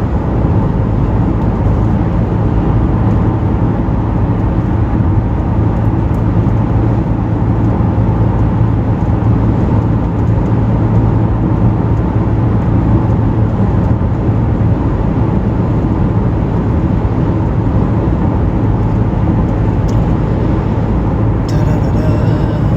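Steady drone of road and engine noise inside a moving car's cabin at cruising speed.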